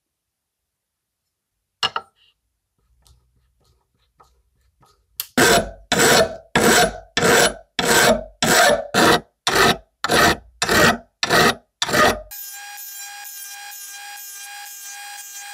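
A sharp knock, then about a dozen rasping hand strokes of a tool, such as a file, on a part, each about half a second long and coming at a steady pace. Near the end a power tool starts and runs with a steady high whine.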